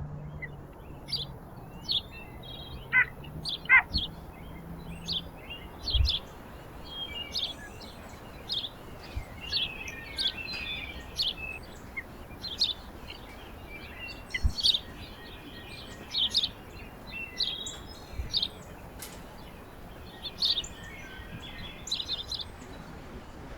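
Small songbirds at a feeder giving many short high chirps and call notes, often overlapping, over a steady hiss, with a few brief low thumps.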